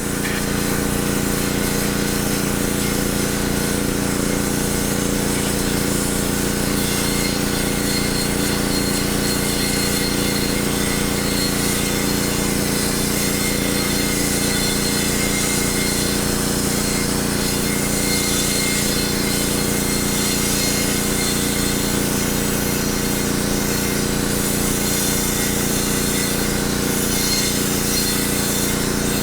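Homemade wet blaster running steadily as it blasts a rusty steel wheel face to bare metal: a constant machine hum with a strong hiss of water and grit spraying.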